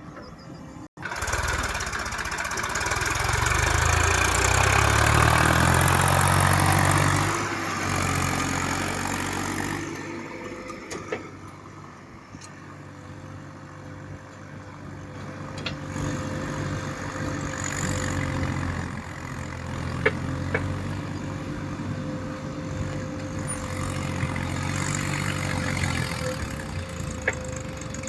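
Tractor engine running. It cuts in after a brief dropout about a second in, climbs in pitch over the next few seconds, is loudest until about seven seconds in, then settles to a steadier, somewhat quieter run.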